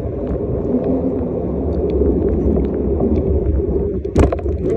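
Steady low rumble of wind on the microphone and bicycle tyres rolling during a ride, with one sharp knock about four seconds in.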